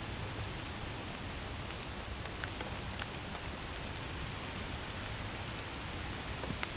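Steady rain falling, with a few separate drops tapping close by.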